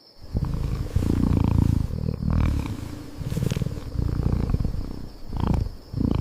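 Cat purring: a low, rapid buzz that comes in rounds of about a second, one with each breath.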